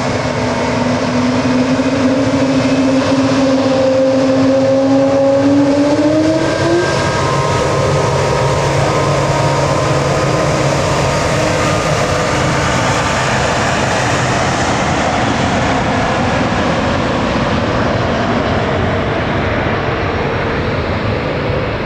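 Jet airliner engine noise, loud and steady, with a whine that rises in pitch over the first seven seconds and then drops away, leaving a broad steady rumble.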